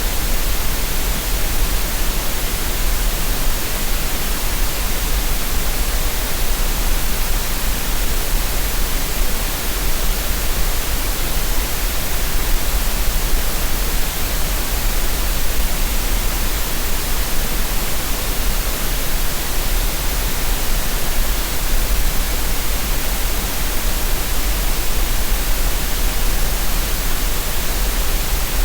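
Steady synthetic green noise: an even, unchanging hiss with no breaks or other sounds.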